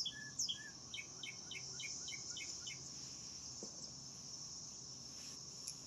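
Steady high-pitched chirring of insects, with a bird singing a quick run of repeated short notes, about three or four a second, that stops about three seconds in.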